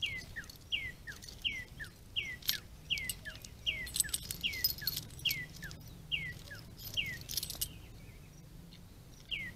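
A bird calling a short down-slurred whistle over and over, about three every two seconds, each followed by a fainter lower note, with scattered high clicks and chips. The calling stops near the end with one last note.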